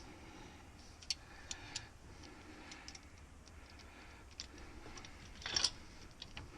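Scattered light metal clicks and taps of a speed wrench and socket running in small bolts, with a louder short clatter about five and a half seconds in.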